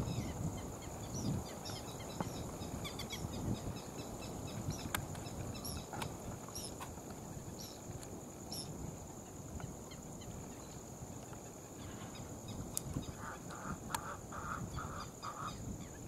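Wetland birds calling: many small chirps over a steady high-pitched whine and a low rumble, with a quick run of about six short calls lower in pitch near the end.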